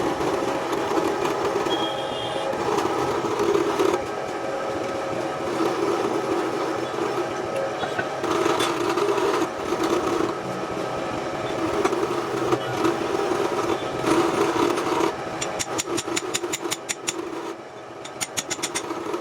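Workshop machine running with a steady hum and a pulsing level. Near the end comes a rapid run of even clicks.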